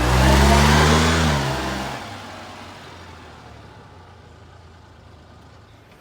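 1996 Honda Acty kei truck's small three-cylinder engine revving as the truck pulls away, its pitch rising then falling over the first second and a half. The engine sound drops off at about two seconds and fades to a low, steady noise.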